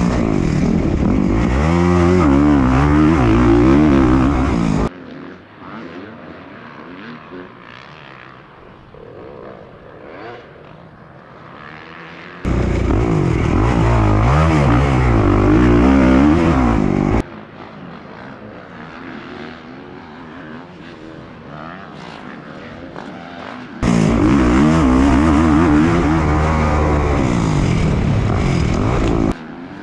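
Dirt bike engines racing, revving up and down through the gears. Three loud close stretches of about five seconds each switch abruptly to fainter, more distant engine sound in between.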